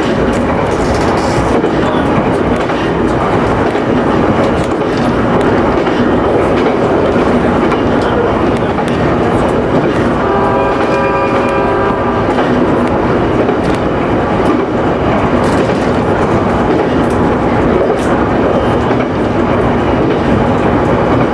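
Electric local train running along the line, a steady rumble and rail noise heard from inside the train. About halfway through, a steady pitched tone sounds for about two seconds.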